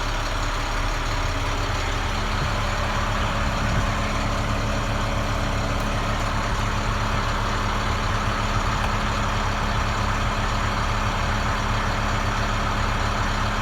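Diesel engine of a 2011 International DuraStar 4300 utility bucket truck idling steadily.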